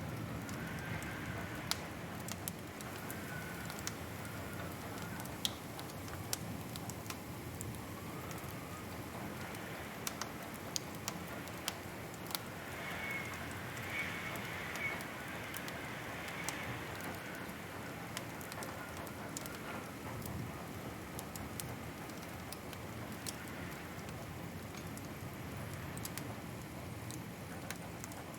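Wood fire crackling in a fireplace: irregular sharp pops and snaps over a steady hiss, with a faint wavering whistle around the middle.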